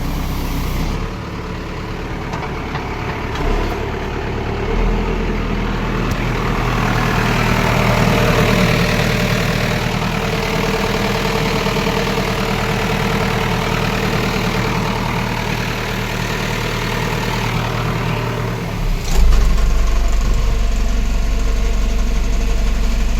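Backhoe loader's diesel engine running steadily. About three quarters of the way through there is a sharp knock, and the engine note turns deeper and louder.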